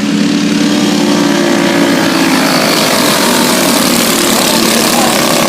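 Several stock car engines running at race speed on a dirt oval, a loud steady engine drone; a clear engine tone fades about two and a half seconds in, leaving a more even spread of engine noise.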